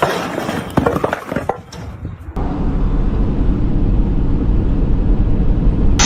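A quick run of sharp knocks and cracks, then an abrupt switch to a steady low rumble like a vehicle driving.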